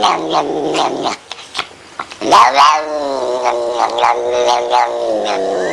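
A cat yowling in long, drawn-out calls: a short one that ends about a second in, then after a brief pause a longer, louder one that rises and then slowly sinks in pitch.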